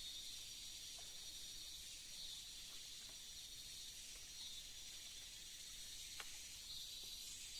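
Steady chorus of forest insects, a high shrill hiss that swells slightly now and then, with a few faint small clicks.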